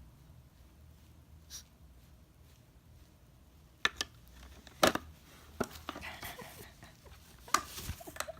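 A few sharp taps or knocks after several quiet seconds, the loudest about five seconds in, with faint rustling between them.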